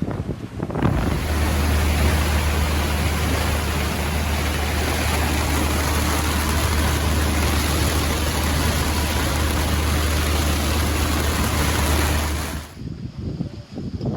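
Strong wind and breaking seas around a sailboat in heavy weather, with the wind rumbling heavily on the microphone. The noise starts abruptly about a second in and cuts off suddenly near the end.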